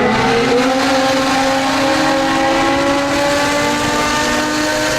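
Performance car engine with a loud aftermarket exhaust under sustained acceleration. Its note rises a little in pitch over the first second or so, then holds high and steady.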